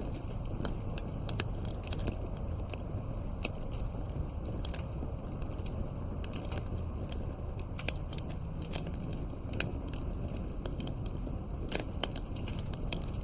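Campfire burning, wood crackling with many irregular sharp pops and snaps over a low steady rumble of flame.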